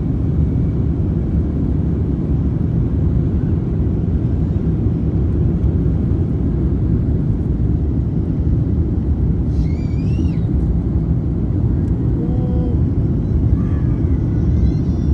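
Steady low cabin rumble of an Airbus A350-1000 climbing after takeoff: its Rolls-Royce Trent XWB engines and rushing air heard from inside the cabin. A few brief faint pitched sounds rise over it about two-thirds of the way in.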